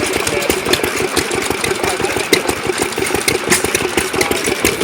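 Homemade hit-and-miss gas engine running, firing in rapid, even beats.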